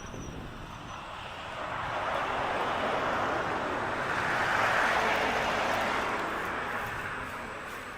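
A road vehicle passing by: a rushing noise that swells over a few seconds, peaks near the middle and fades away again.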